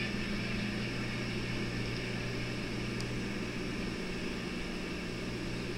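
Passenger cars of a long train rolling past at a distance, a steady rumble and hiss with a low hum under it.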